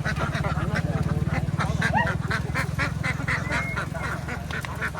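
A large flock of farm ducks quacking continuously, many calls overlapping, over a steady low hum.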